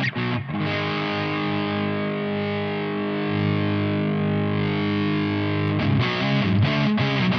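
Electric guitar played through an Ibanez Metal Charger distortion pedal: a few quick chord hits, then one long distorted chord left ringing for about five seconds, then more short, chopped chords near the end.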